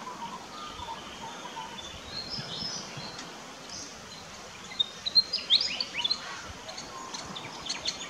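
Small birds chirping over a steady outdoor hiss: faint high whistles, then a quick run of loud, sharp, high chirps that sweep downward about five seconds in, and a few more short high notes near the end.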